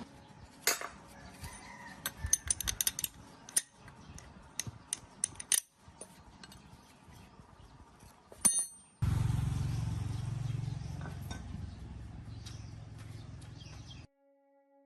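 Metal tools and parts clinking and tapping against metal, a rapid run of sharp clinks in the first few seconds. About nine seconds in a steady low mechanical hum starts suddenly and runs until it cuts off near the end.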